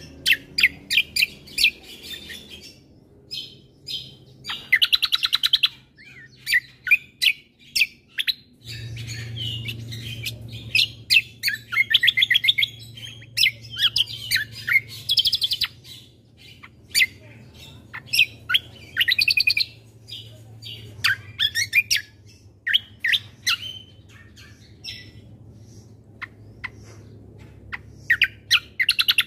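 Kecial kombo (cucak kombo) songbird singing a long, varied song of quick chirps and rapid trills in runs. A low steady hum comes in about nine seconds in.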